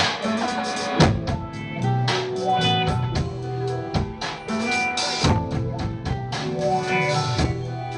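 Live band playing an instrumental passage without vocals: a drum kit keeping a steady beat under sustained bass and guitar notes.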